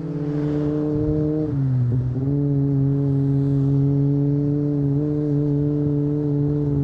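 Kawasaki ZX25R's 250 cc inline-four, running through an Akrapovic exhaust and heard from on board at a steady high engine speed. The note drops at the start and again about two seconds in, as the bike shifts up, then holds steady.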